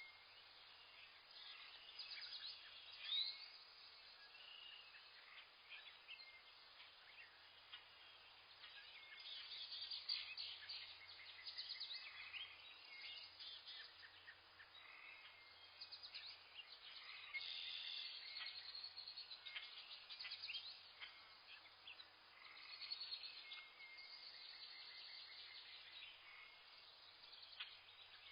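Faint chorus of small birds chirping and trilling, several calls overlapping, with quick runs of high notes coming and going.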